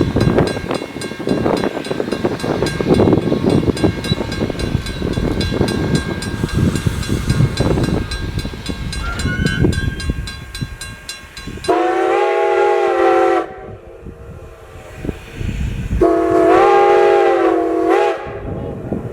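Strasburg Railroad No. 90, a 2-10-0 steam locomotive, running with its train, a rhythmic chuffing and rumbling. Its steam whistle then sounds twice: a short blast, then a longer one that ends with a brief extra toot.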